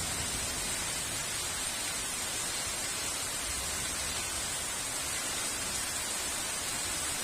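Heavy rain falling steadily, an even dense hiss with no changes.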